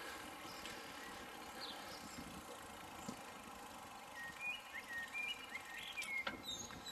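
Faint outdoor background with a run of short bird chirps in the second half and a light click near the end.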